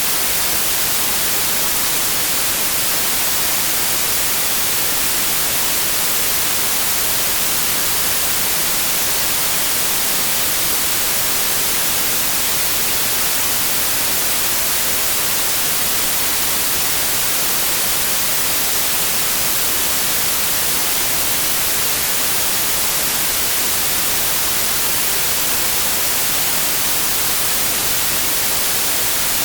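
Synthetic white noise: a steady, even hiss that does not change, heard as bright and sharp at the top.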